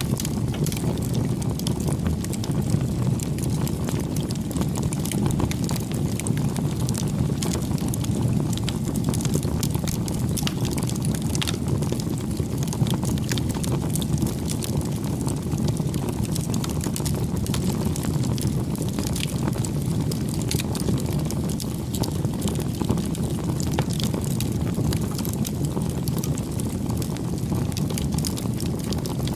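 Wood fire burning steadily: a continuous low rumble of the flames with frequent small sharp crackles and pops from the burning wood.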